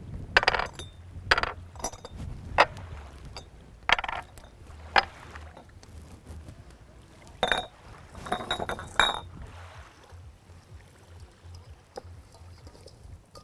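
Cookware clinking and clattering as it is handled: about eight sharp knocks over the first nine seconds, the last few ringing briefly.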